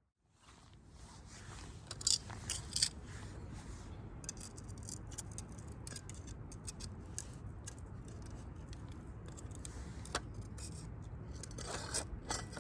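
Metal hot sandwich maker being handled and unlatched, giving light metallic clicks and clinks, with two sharper clicks about two seconds in, over a steady low outdoor background.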